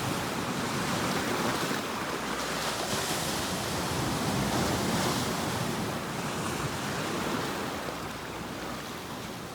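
Ocean waves breaking and washing on a shore, a steady surf hiss that swells twice and eases off near the end.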